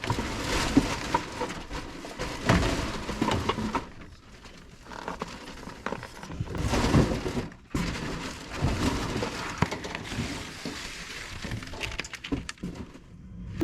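Irregular rustling, scraping and knocking from a furnace filter being handled and swapped out, with louder bursts about two and a half seconds in and near the middle.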